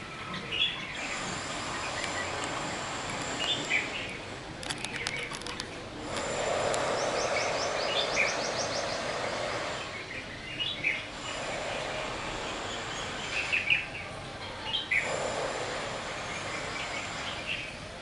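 Birds chirping: short calls every second or two over steady background noise, with a quick run of rapid ticks about five seconds in and a series of high, thin notes soon after.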